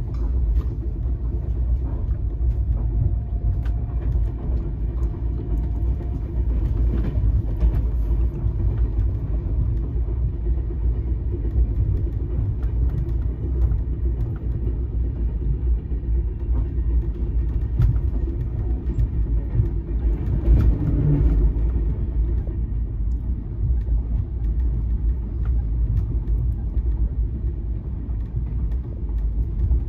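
Express train running at speed, its wheels rumbling steadily on the rails as heard from inside a passenger coach.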